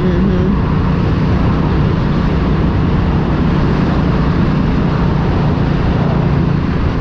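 Motorcycle engine and road and wind noise while riding at a steady speed, a constant hum under an even rushing sound.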